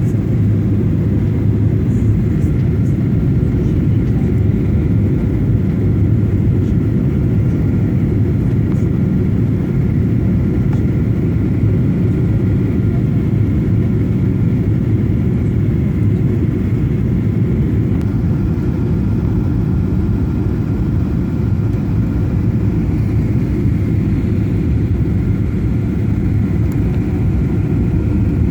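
Airliner cabin noise: a steady, loud low rumble of the jet engines and airflow, heard from inside the passenger cabin, with a faint steady whine above it.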